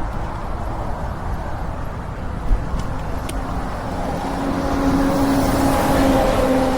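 A motor vehicle approaching and passing close by, its tyre and engine noise building from about four seconds in and loudest near the end, over a steady wind rumble on the microphone of the moving bike.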